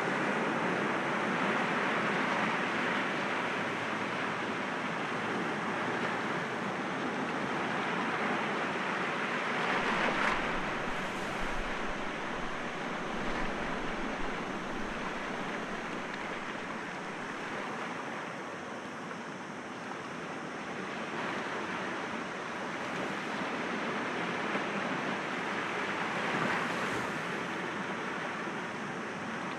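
Sea waves breaking gently against rocks: a continuous wash of surf that swells and eases, with the strongest breaks about ten seconds in and again near the end.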